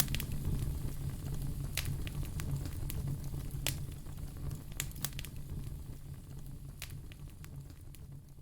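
Wood fire in a fireplace crackling, with scattered sharp pops over a low steady rumble, fading out gradually toward the end.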